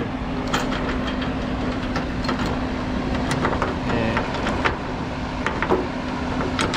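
Steel tie-down chain clinking and rattling as it is wrapped around a cable reel, in scattered sharp clinks, over a steady engine hum.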